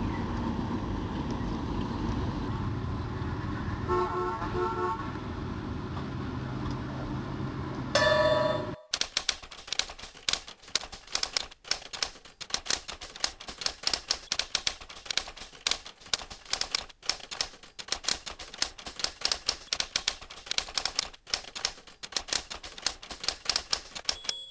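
Vehicle rumble with two short horn toots about four seconds in and a louder, longer tone near nine seconds that cuts off abruptly. After that come about fifteen seconds of rapid, dense clicking, like a typewriter.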